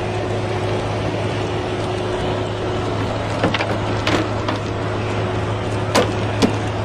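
A steady engine-like drone with a constant low hum, broken by a few short, sharp sounds about halfway through and again near the end.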